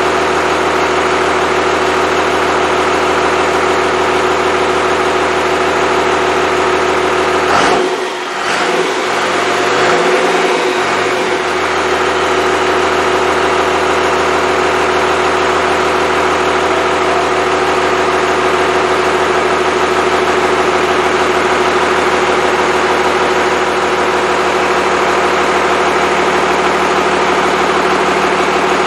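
Freshly rebuilt Cummins 5.9L 12-valve inline-six diesel idling steadily on its first run. About eight seconds in, its speed briefly changes over a few seconds before it settles back to a steady idle.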